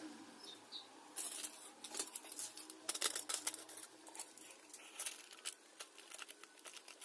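Irregular light clicks, taps and short scrapes of small parts being handled and worked by hand.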